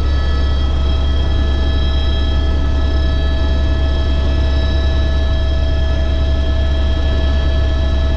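Helicopter running steadily: a loud, constant low drone with several steady whining tones above it.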